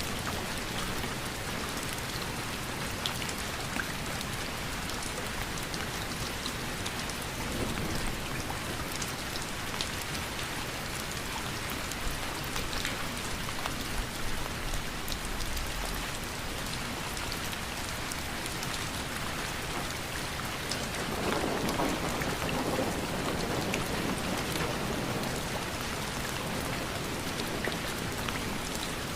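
Steady rain falling, with many single drops ticking sharply through the hiss. It swells into a fuller, louder patch for a couple of seconds about two-thirds of the way through.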